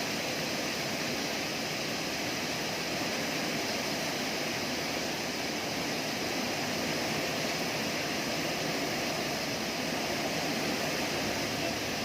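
Heavy rain driven by wind: a steady, even rush of noise that holds at one level throughout.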